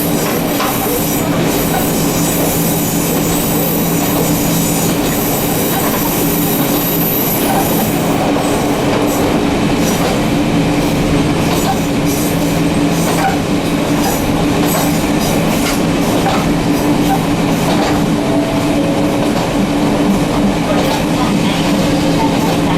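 An electric railcar running along the line, heard from inside the car: a steady low motor hum over the rumble of the wheels, with scattered clicks from the rails. A thin high squeal rises above it over about the first third, then fades.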